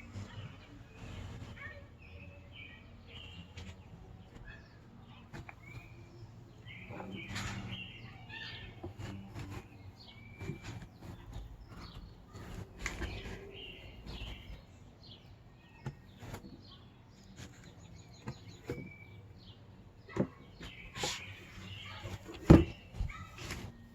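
Small bird chirping in short, scattered calls, amid scattered clicks and knocks and one sharp thump near the end.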